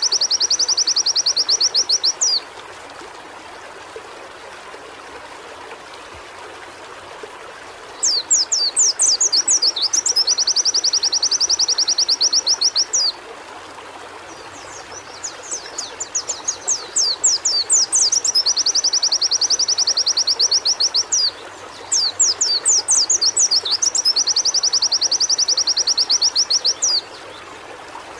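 White-eye (pleci) singing in four bursts, each a few quick sweeping chirps running into a rapid, high trill lasting several seconds, with short pauses between bursts. A steady background hiss runs underneath.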